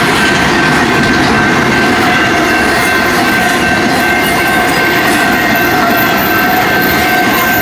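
BNSF intermodal freight train's cars passing at speed close by: a loud, steady rush of wheels on rail with a constant high-pitched ringing over it.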